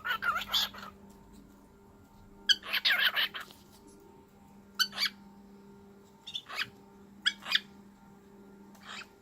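Cockatiel chirping and chattering in short squawky bursts, about six times with pauses between.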